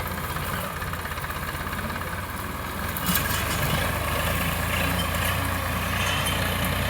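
Tractor diesel engine running steadily; about three seconds in it gets louder, speeding up or taking on load.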